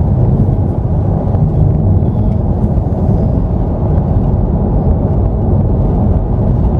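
Steady, loud, low rumble of a motor vehicle on the move, with no distinct events.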